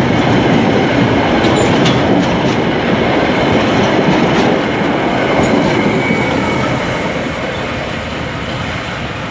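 Freight train of container flat wagons rolling past close by: a steady rumble and clatter of wheels over the rails, with a brief faint wheel squeal about six seconds in. The sound fades from about five seconds in as the last wagon goes by and the train draws away.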